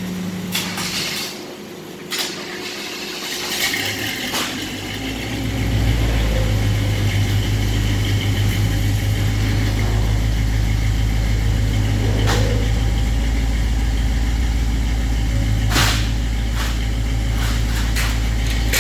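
A square-body Chevy C10 truck's engine is started for the first time on new Jones Full Bore single-chamber mufflers with turn-down tips. It catches about five seconds in and settles into a steady idle. A few sharp clicks come before it catches and now and then while it idles.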